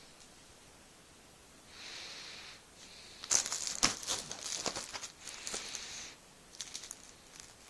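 Plastic packaging crinkling and crackling as it is handled, in a dense run of about three seconds after a soft swish, then a few scattered crackles near the end.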